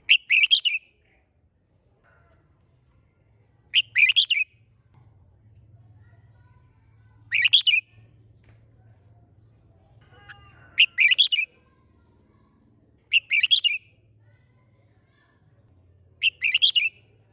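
Red-whiskered bulbul in fired-up, competitive song: six short, loud phrases, each about half a second long, spaced roughly three seconds apart.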